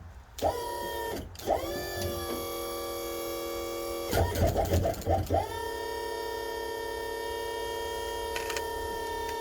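Hydraulic pump motor whining as it powers the unit down: a few short starts, a quick stutter of on-off bursts about four seconds in, then a steady run.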